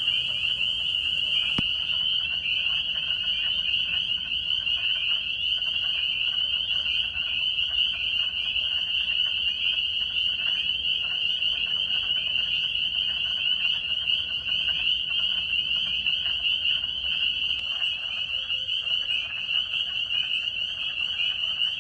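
Chorus of many frogs giving their mating calls at once: a dense, steady, high-pitched trilling made of rapid overlapping pulses.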